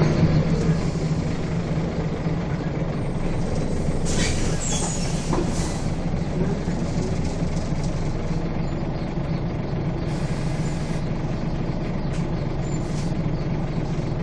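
Scania bus engine running with a steady low drone, easing off at the start, with a brief hiss of air about four to six seconds in.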